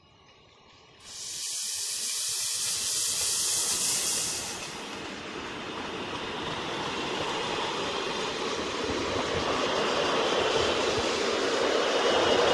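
A sudden loud hiss about a second in, lasting some three seconds, then the rumble of a train growing steadily louder as it approaches through the station.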